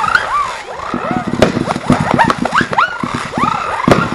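A consumer fireworks cake firing shot after shot. Many whistles rise quickly and then fall in pitch, over a dense run of launch thumps, with sharp bangs about one and a half seconds in, at two seconds and near the end.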